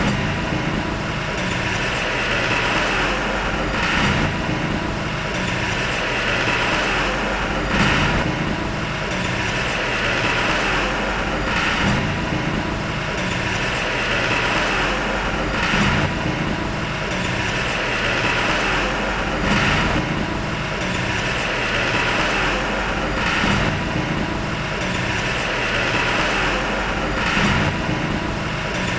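Heavy earthmoving machinery running steadily under a diesel engine, with a swell in the noise that comes back about every four seconds.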